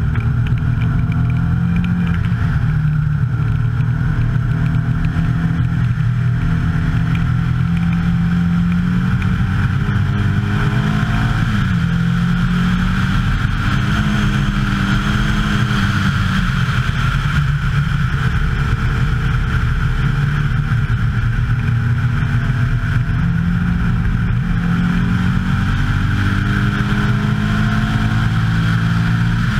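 Turbocharged 2165cc air-cooled VW flat-four in a 1303 Beetle race car, heard from on board under hard acceleration. The engine note climbs and falls back several times as the driver shifts gears and lifts for corners.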